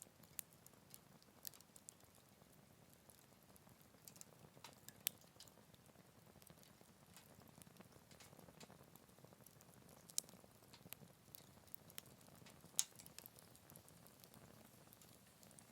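Wood fire burning quietly in a Picogrill 398 fire stand: irregular sharp crackles and pops over a soft hiss, the loudest pops about five seconds in, about ten seconds in and near the end.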